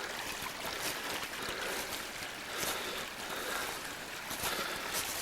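Storm runoff roaring over a small waterfall: a steady rushing of floodwater, with a few faint clicks.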